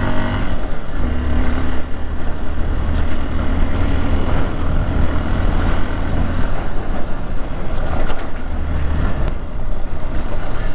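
Hero XPulse 200's single-cylinder engine running steadily while riding, with wind and road noise, and a few short knocks in the last few seconds.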